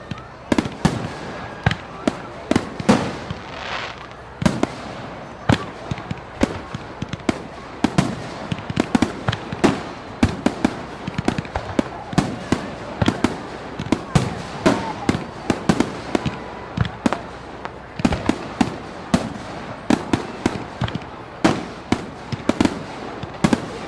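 A rapid, irregular series of sharp pops and bangs, two or three a second, over a steady noisy background.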